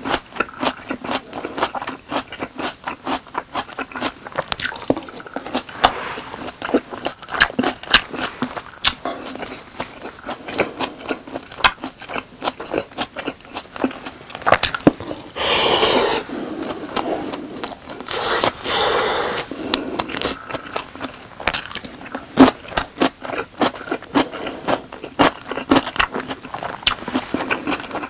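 Close-miked chewing and biting of boneless chicken and rice: a dense run of wet smacks and sharp mouth clicks. Two longer scraping sounds come about halfway through.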